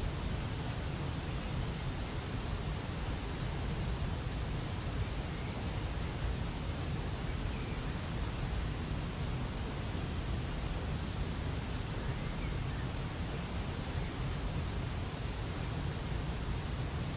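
Steady rushing of a waterfall, with a small bird calling runs of short, quick high notes several times over it.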